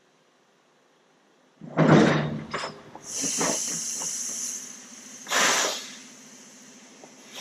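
Compressed air hissing out in bursts: a loud short blast about a second and a half in, then a steadier high hiss, then another short blast.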